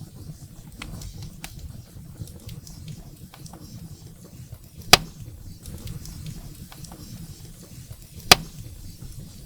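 Firewood burning in a fireplace: a low, steady flame rumble with scattered faint crackles, and two loud, sharp pops from the burning wood about five and eight seconds in.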